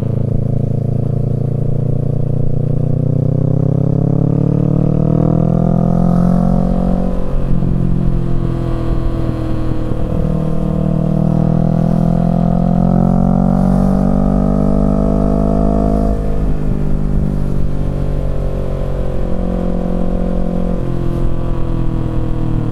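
Kawasaki Z650 parallel-twin engine through a Yoshimura Alpha exhaust, pulling hard with its pitch rising. About seven seconds in the revs drop sharply as it shifts up, then it climbs again for a long pull before backing off about two-thirds of the way through and running lower.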